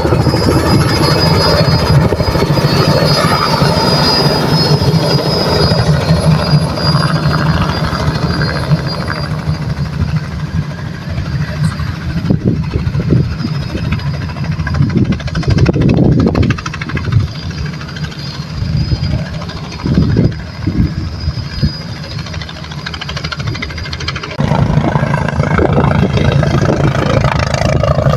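Turbine helicopter running close by: a rapid rotor beat over a low rumble, with a high turbine whine. The sound eases off for about ten seconds around the middle, with uneven surges, and grows loud again near the end.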